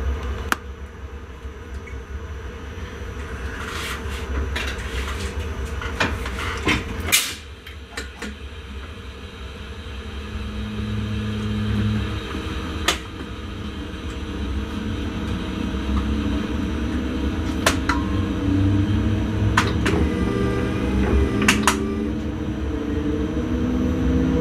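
Electric intercity train heard from the driver's cab: a low rumble with scattered sharp clicks and knocks, and motor tones that climb in pitch from about ten seconds in as the sound slowly grows louder.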